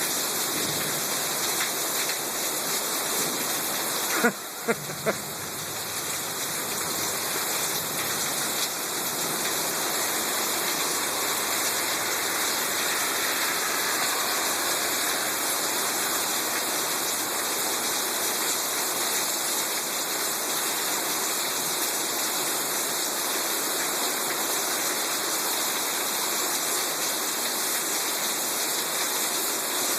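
Heavy thunderstorm rain pouring down steadily in a dense, even rush. A few sharp knocks come about four to five seconds in.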